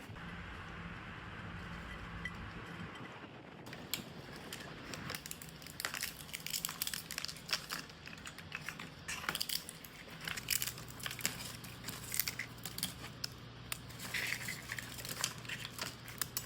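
Dry eggshells crackling and crunching in irregular sharp clicks as they are crushed by hand, starting about four seconds in.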